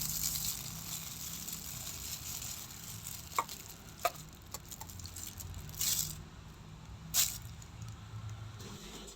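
Street-food pancake cooking: a hiss at first, a few sharp clicks, and two short hissing bursts over a low steady hum.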